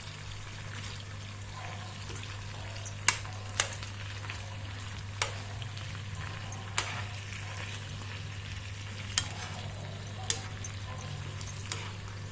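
Bone-in chicken sizzling steadily in a pan over a low flame, with sharp clicks of a utensil against cookware about seven times.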